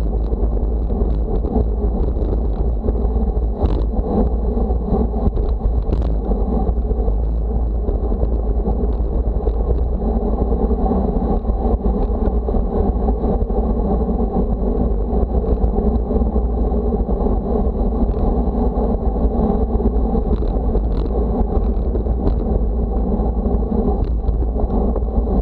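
Steady wind rushing over the microphone with the running noise of travel, a deep rumble under it, on a windy day.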